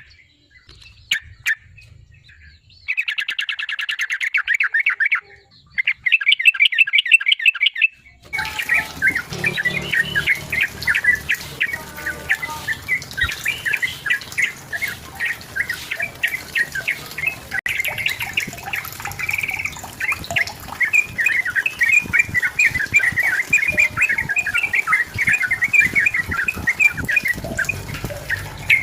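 Yellow-vented bulbul (trucukan) singing fast, bubbling chattering phrases: two short bursts, then from about eight seconds in an almost unbroken run of song over a steady background hiss. A few faint clicks come before the first phrase.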